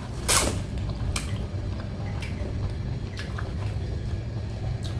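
Close-miked chewing of squid in padang sauce: a few short wet smacking and squishing mouth clicks, the loudest just after the start, then about one a second. The squid is a little tough and rubbery to chew.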